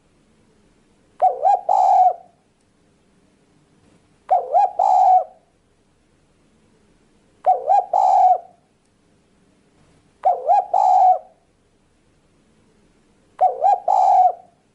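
Spotted dove (tekukur) cooing: five repeated call phrases, about one every three seconds, each a couple of quick notes run into a longer coo.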